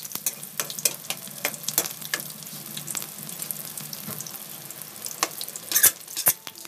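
Vegetable lumpia frying in hot oil in a metal wok: steady sizzling with frequent crackles and pops, and two louder snaps near the end.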